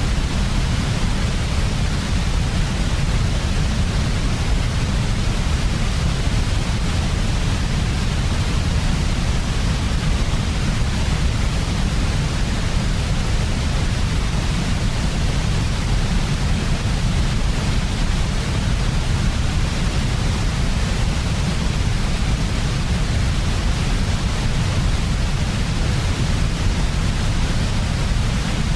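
Steady electronic white noise for sleep: an even, unchanging hiss over a deeper low rumble, with no change in level.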